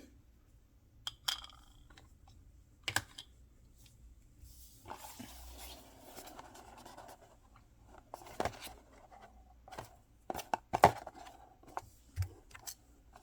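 Handling of small boxes and packaging during unboxing: scattered sharp clicks and taps, with a stretch of rustling and tearing about five seconds in.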